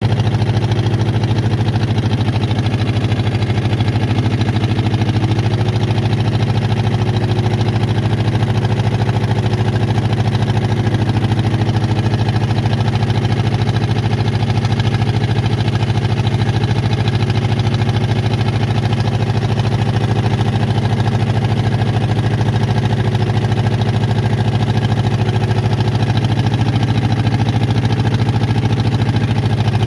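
Small boat engine running steadily at an even speed, a constant low hum with no change in pitch.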